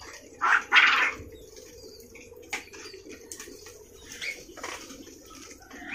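Small birds in an aviary: two loud flutter-like rustles about half a second in, then scattered short chirps and ticks over a faint steady hiss.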